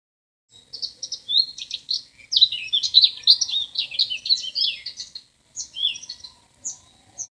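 Bird calls: a dense run of quick chirps and short twittering phrases, starting about half a second in, with a brief pause a little after five seconds.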